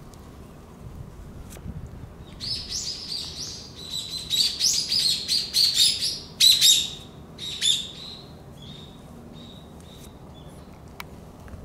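A small bird chirping in quick runs of short, high notes, busiest and loudest from about two to seven seconds in, then a few fainter chirps.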